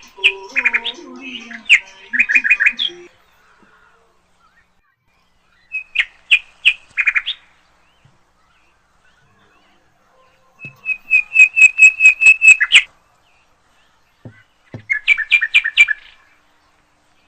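A songbird singing in four separate phrases, each a quick run of repeated chirping notes, with pauses of a few seconds between them. The third phrase is the longest and loudest, an even trill of about a dozen notes.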